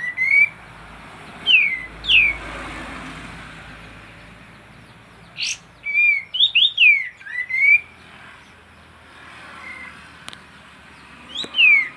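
Kapas tembak bulbul singing energetically: short phrases of clear whistled notes that slide down and then up again, repeated four times with pauses in between, over a faint steady hiss.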